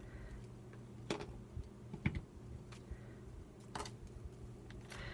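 A few light, sharp taps and clicks of paper and craft materials being handled on a tabletop, over a low steady hum.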